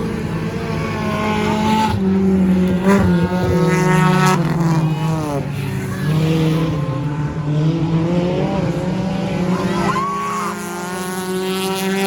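Several stock car engines running at race speed around a track. Cars pass close by about four seconds in and again near the end, their engine pitch sweeping down as they go by.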